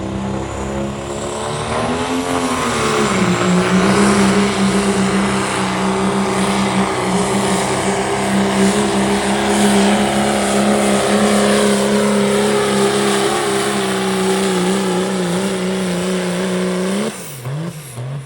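Turbocharged diesel pulling truck under full load during a pull: the engine revs up about two seconds in, holds a steady high-rpm note down the track, then drops off suddenly about a second before the end as the run ends.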